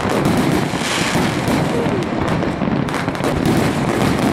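Fireworks display: a dense, continuous barrage of bangs and crackling from many shells bursting at once.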